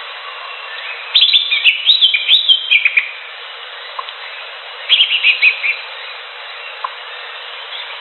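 Greater green leafbird (cucak hijau) singing two quick warbling phrases of rapid chirps: a longer one about a second in, lasting about two seconds, and a shorter one about five seconds in, over a steady background hiss.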